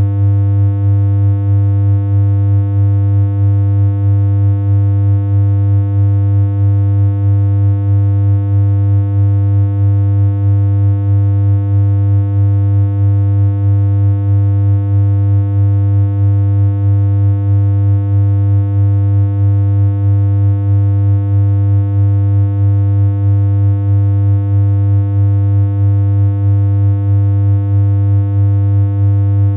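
Steady synthesized hum: one unchanging low electronic tone with a buzzy string of overtones, wobbling slightly and regularly in loudness.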